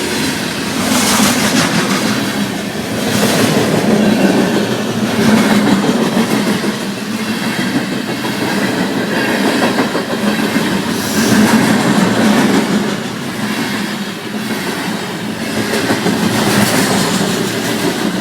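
A train passing close by: a loud continuous rumble and rush, with its wheels clacking over the rail joints.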